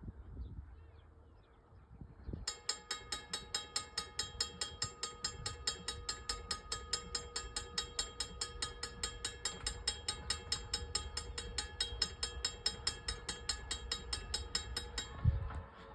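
Railroad bell ringing fast and evenly, several strokes a second, starting about two and a half seconds in and stopping shortly before the end. A low thump comes as it stops.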